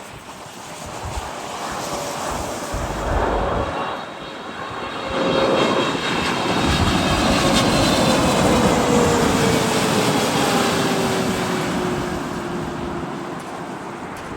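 Boeing 777-200LR's twin GE90 turbofans growing louder as the airliner passes close on landing, then fading, with a whine that falls steadily in pitch as it goes by.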